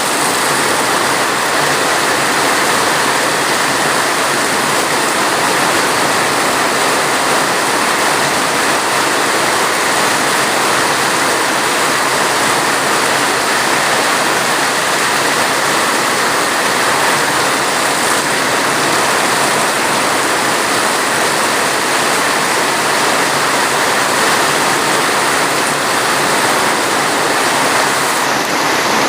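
Steady rain falling heavily: a loud, even rushing hiss with no single drops or changes standing out.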